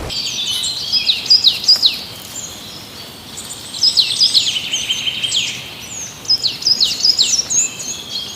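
A songbird singing in three phrases of quick, high, sharply falling notes, about a second or two each, with short pauses between.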